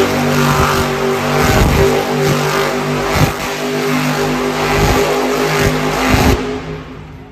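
Monster truck engine running hard under throttle, fading away near the end.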